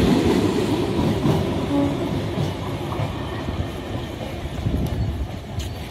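Electric multiple unit (EMU) local train running close by on the track, its running noise dying away as it moves off.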